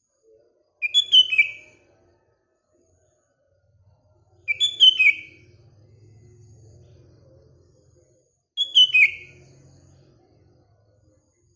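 Sooty-headed bulbul (kutilang) singing the same short phrase of quick notes three times, about every four seconds.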